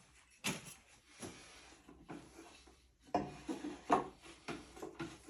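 Wooden pieces being handled on a workbench: a series of light, irregular knocks and scrapes, the loudest a little after three seconds and near four seconds.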